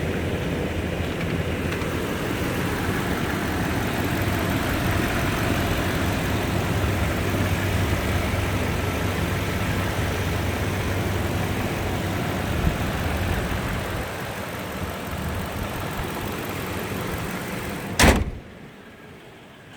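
2008 Toyota Tundra engine idling after a cold start, a steady hum that eases off slightly about three quarters of the way through. Near the end comes one loud thud, after which the engine is much fainter.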